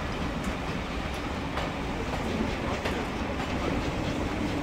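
Steam-hauled train's passenger coaches rolling slowly past, a steady rumble of wheels on rail with occasional clicks as the wheels cross rail joints and pointwork.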